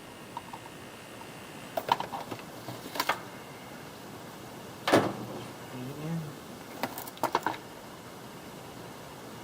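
Scattered short clicks and knocks, the loudest about five seconds in and a quick cluster around seven seconds, over a faint steady hiss; no motor is running.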